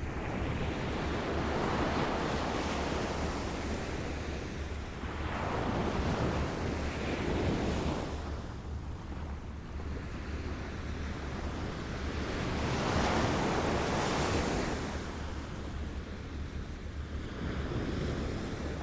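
Small waves lapping on a shore, each one washing in as a swell of noise that rises and fades every few seconds, with the biggest wash a little past the middle. A steady low rumble lies underneath.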